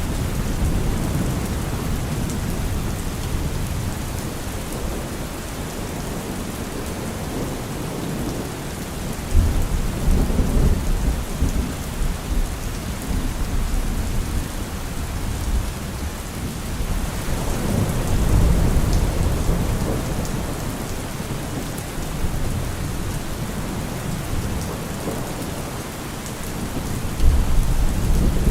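Heavy rain drumming steadily on a car roof, with rolls of thunder rumbling low three times: about nine seconds in, at around eighteen seconds, and again near the end.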